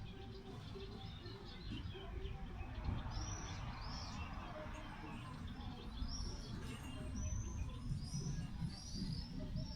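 Small birds chirping: short, repeated high chirps that start about three seconds in, over a low, steady rumble.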